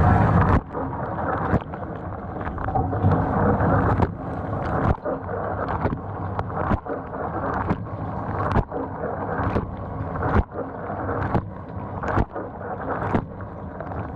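GE dishwasher (GDT655SSJ0SS) running a wash cycle: a steady rush and splash of water, broken by irregular sharp knocks about every half second to a second. The lower spray arm is not spinning, because a stuck valve ball gummed up in the nozzle is not being moved.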